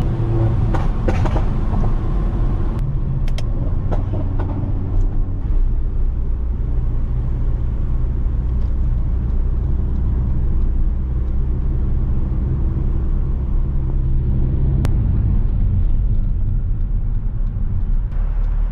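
Stage 2 tuned Mercedes-AMG GLA45's turbocharged four-cylinder engine and exhaust while driving, with a few sharp crackles in the first few seconds, then settling into a steady low drone.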